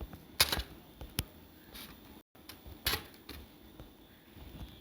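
A few sharp clicks and knocks, with light handling noise, from thermocol foam pieces being pressed together and a hot glue gun being handled.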